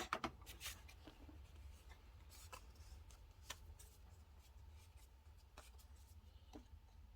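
Quiet handling of paper and stationery: a quick cluster of small taps and rustles at the start, then a few scattered soft ticks.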